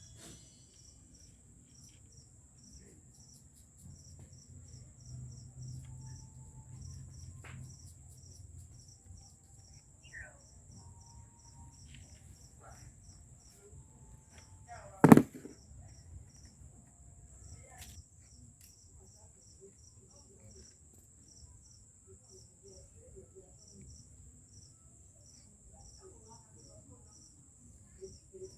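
Insects chirping: a steady high trill with regular short chirps about twice a second. About halfway through there is a single loud, sharp sound.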